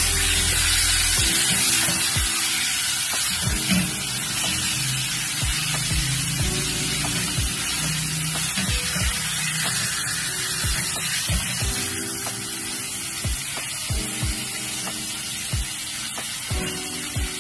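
Chicken pieces sizzling as they fry in hot oil in a pot, with light knocks of the spatula against the pot as the meat is stirred now and then.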